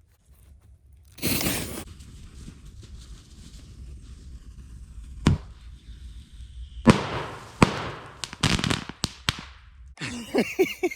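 Fireworks going off: a short whoosh, then a faint steady hiss and a single sharp crack about five seconds in. These are followed by a rapid string of firecracker bangs and pops over the next couple of seconds.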